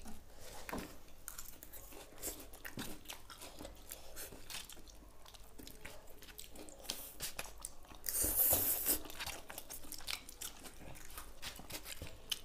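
Close-up sounds of two people eating noodles with forks: steady wet chewing, small smacks and clicks throughout. A louder rush of noise lasting about a second comes about eight seconds in.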